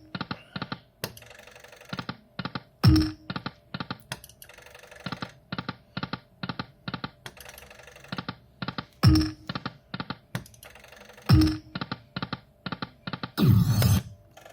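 High Stakes Lightning Cash video slot machine spinning over and over: rapid runs of short electronic clicks as the reels stop, with a louder sound with a short low tone at the start of each new spin, about four times.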